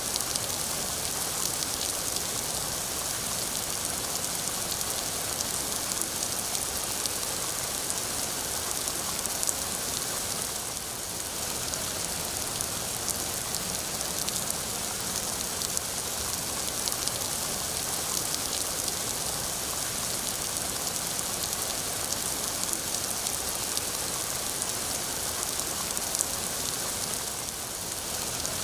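Steady rainfall, an even hiss with many individual drops ticking through it.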